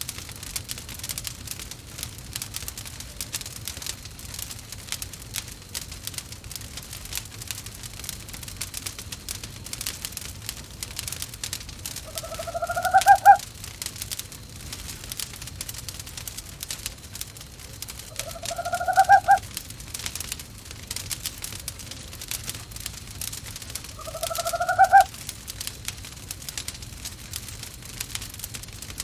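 An owl calling three times, about six seconds apart; each call lasts about a second and a half and rises in pitch. Underneath, a wood fire crackles steadily in a fireplace.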